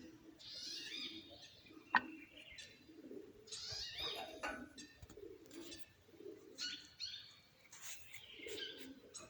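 Small birds chirping and twittering in repeated bursts over a low, recurring cooing. There is a single sharp click about two seconds in.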